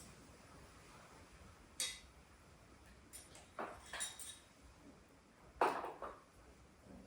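Metal tools and parts clinking and clattering as they are handled: a sharp clink about two seconds in, a quick run of clinks around four seconds, and the loudest clatter near six seconds.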